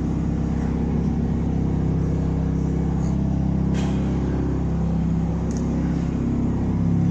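A mobile stage truck's engine runs steadily with a low, even drone, with a faint tick about four seconds in.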